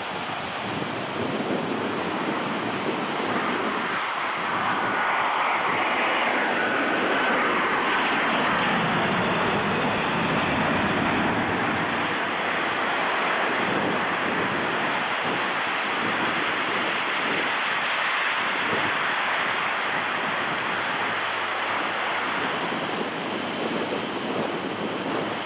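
Jet airliner passing by, its engine noise swelling and staying loud, with a whine that falls in pitch about a quarter of the way in.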